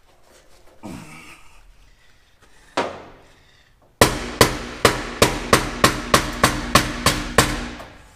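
Hammer blows on metal: a single strike, then about a second later a quick run of around a dozen blows, roughly three a second, each ringing briefly.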